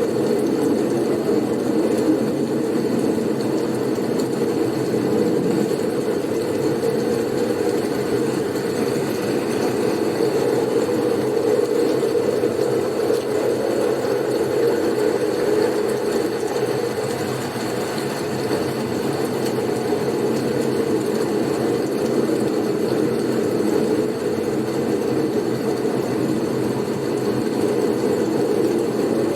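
Steady, deep blizzard wind noise, a continuous rushing rumble with no breaks, with a rising whistle starting right at the end.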